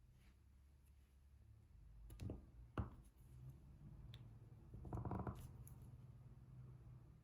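Faint clicks and taps of diamond painting: a drill pen picking up and pressing small resin drills onto the adhesive canvas, two sharp clicks a little before the middle and a brief louder scrape just past it, over a low room hum.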